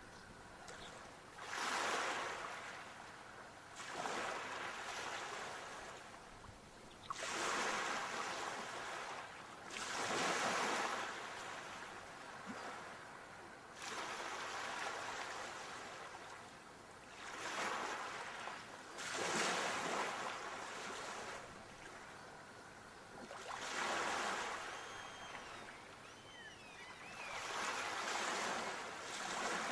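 Sea waves breaking on a shore: each wave surges up and washes back, one after another every few seconds.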